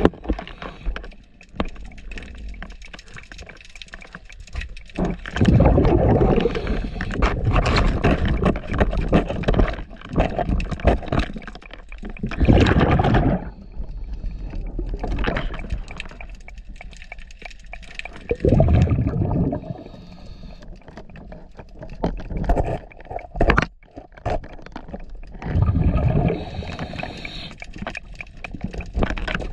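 Underwater sound of a diver's breathing through a regulator: loud bubbling gushes of exhaled air about every six seconds, with gurgling and crackle in between.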